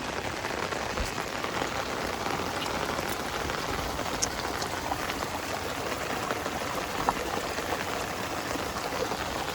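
Steady rain falling: an even hiss of drops with a few sharper drop ticks here and there.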